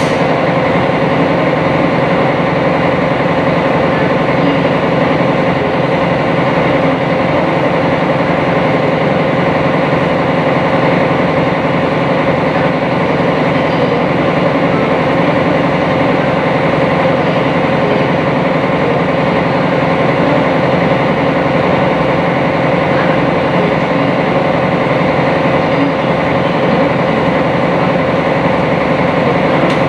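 Sightseeing boat's engine running steadily while under way, heard on board as a constant loud drone with a fixed hum, with no change in speed.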